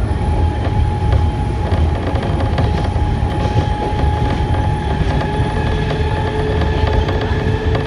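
Enshu Railway electric train running at speed, heard from aboard: a steady low rumble of wheels on rail with thin, steady whining tones over it, a lower tone joining about five seconds in.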